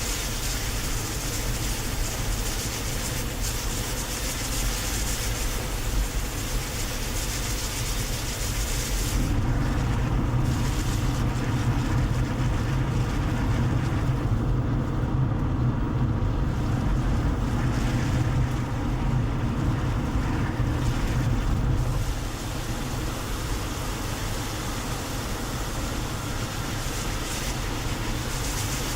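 Steady road and engine noise of a moving car, heard from inside the cabin. From about nine seconds in until about twenty-two seconds in, the rumble gets deeper and louder, then eases back.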